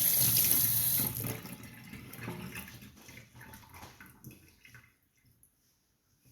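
Water tap running into a sink, shut off about a second in, followed by a few faint knocks and handling noises.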